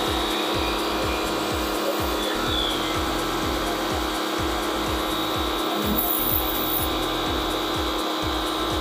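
Autopramie AP-JC8000 electric pressure washer running steadily under load, its carbon-brush motor and pump running together with a constant hiss of spraying water.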